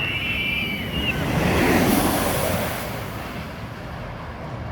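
A road vehicle passing: a rushing noise that swells about two seconds in and then fades. A brief high-pitched squeal sounds in the first second.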